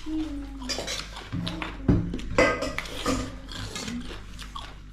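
Eating sounds at a meal of goat meat curry and rice: clinks and knocks of utensils on plates and bowls, with brief low voice sounds. A sharp knock comes about two seconds in.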